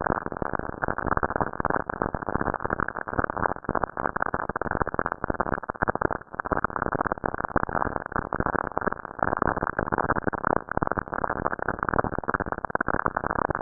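Spacecraft radio or plasma wave recording converted to sound: dense crackling static with rapid irregular clicks, muffled with no high end.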